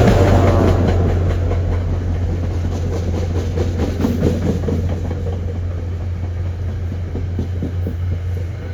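Metro-North passenger train's coaches rolling past into the station behind diesel locomotive 4905, wheels clacking over rail joints over a steady low hum. The sound slowly fades as the train moves on.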